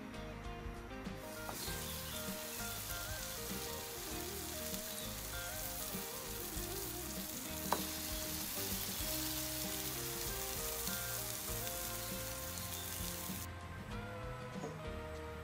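Egg-soaked bread slices sizzling as they fry in a nonstick pan: a steady sizzle that starts shortly after the beginning and cuts off suddenly near the end, over background music. A single sharp tap is heard about halfway through.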